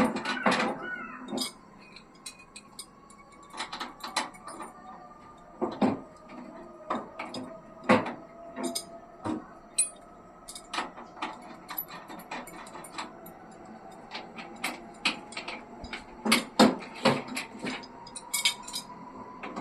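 Irregular metallic clinks and knocks of hand tools and parts being handled while an air conditioner is installed, some single and some in quick clusters.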